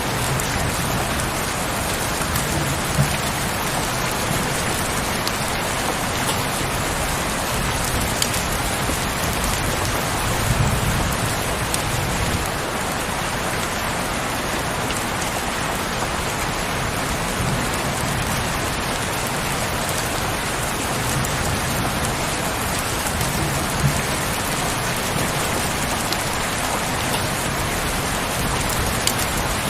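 Heavy rain falling steadily, an even hiss with a few sharper drop hits now and then.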